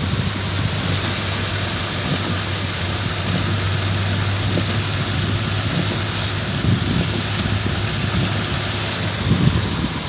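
Heavy tropical-storm rain pouring steadily, with a steady low hum underneath that fades near the end.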